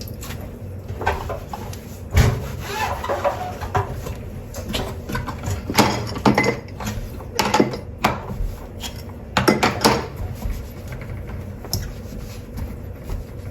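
Dishes and cutlery being handled, clinking and knocking against each other in irregular, separate clatters.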